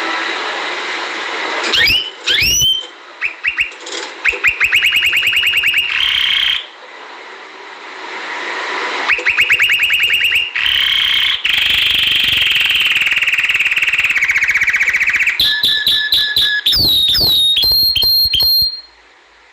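Domestic canary singing: fast trills and rolls of rapidly repeated notes, broken by short pauses, with quick rising and falling glides. Near the end come higher notes and a held whistled note, and the song stops shortly before the end.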